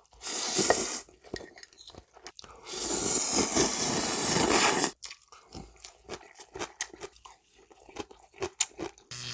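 Close-miked eating: two long slurps of thin noodles in broth, the second about two seconds long, followed by a run of sharp crunching bites and chewing of crunchy vegetables.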